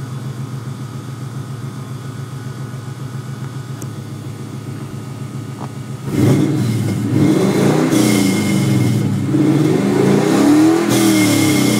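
Swapped-in Ford Coyote 5.0 DOHC V8 idling steadily with a slight lope, then revved several times from about halfway through, the pitch climbing and falling with each blip of the throttle.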